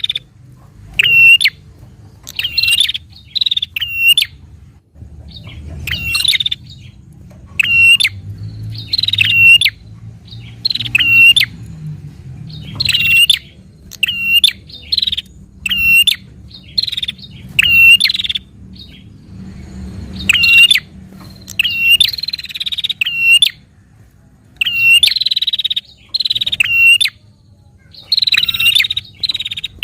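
A prinia (prenjak) calling in its rapid, excited 'narung' challenge chatter: loud, sharp chirps about once a second, often in pairs, each dropping quickly in pitch. This is the call keepers play to provoke their own prenjak into calling.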